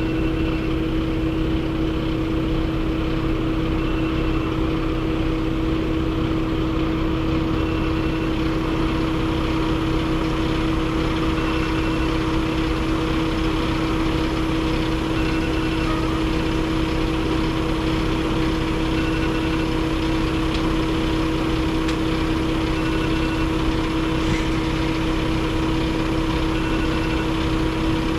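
Truck engine running steadily, a constant drone with a low rumble and an even hum that does not rise or fall.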